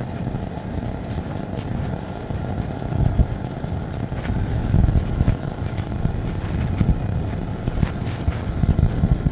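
A car driving on a snowy road: a steady low rumble of engine and tyre noise, with a few faint ticks.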